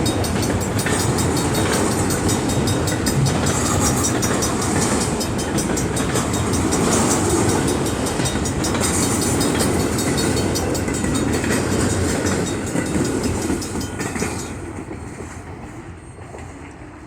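Train passing close by, its wheels clattering steadily over the rails, then fading away about fourteen seconds in.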